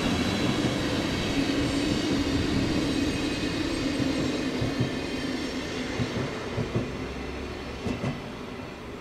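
Train running past and moving away, its rumble and hum fading, with a few wheel clicks over rail joints in the second half.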